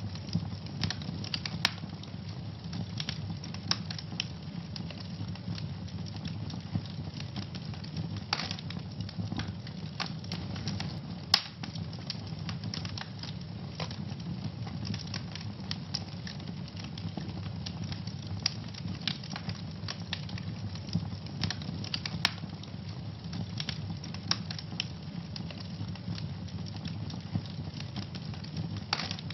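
Wood fire burning in a fireplace: a steady low rumble of flame with frequent irregular crackles and pops, one sharper pop about eleven seconds in.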